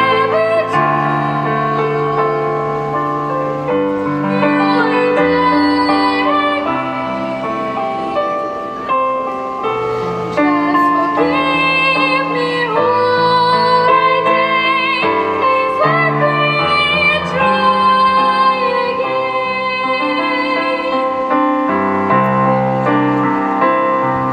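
A girl sings in classical academic style, holding long notes with vibrato, over piano accompaniment.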